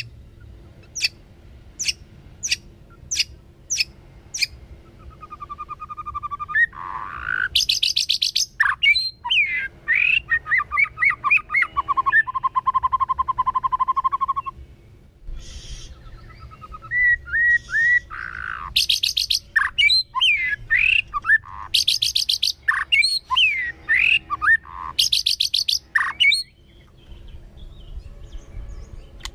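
White-rumped shama singing: first a series of sharp ticks spaced a little over half a second apart, then a varied song of rich whistles, slurred rising and falling notes, a fast trill and several short harsh rasping bursts.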